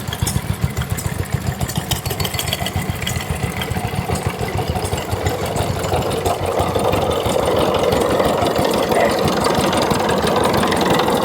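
Vintage stationary engines running, with a rapid low pulsing; from about halfway through, a higher-pitched running sound grows louder over it.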